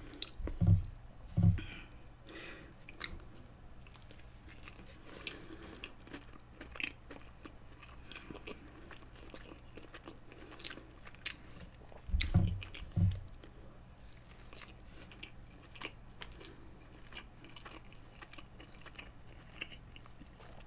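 Close-miked chewing of a cheeseburger, with small wet clicks of the mouth. A few dull low thumps come near the start and again about twelve seconds in.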